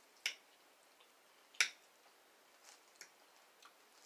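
Close-miked eating sounds while a meal is being eaten: two sharp clicks and smacks, then a few fainter ones.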